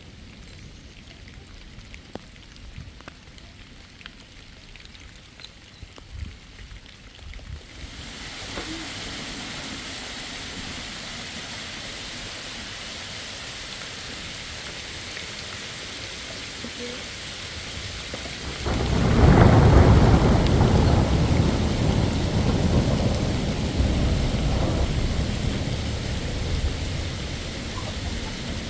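Rainstorm: rain sets in as a steady hiss about eight seconds in, and about ten seconds later a loud clap of thunder breaks into a long deep rumble that slowly dies away under the rain.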